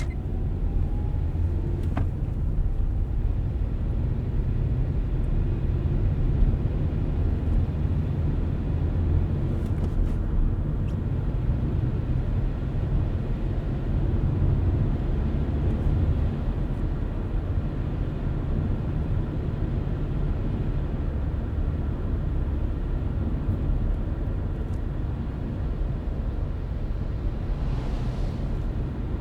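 Car driving at a steady speed: a low, steady rumble of road and tyre noise, with a faint click about two seconds in and a short swell of hiss near the end.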